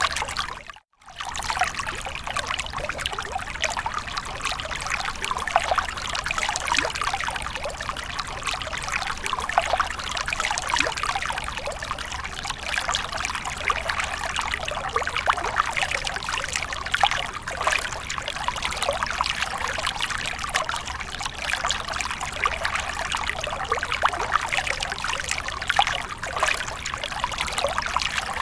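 Water splashing and trickling steadily, a dense patter of many small splashes, broken by a brief silent gap about a second in.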